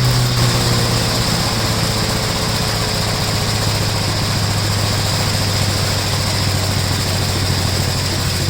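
Engine of a 1969 Gravely L-series walk-behind tractor running steadily, its pitch settling at one speed after easing down at the very start, now firing after the no-spark fault was repaired.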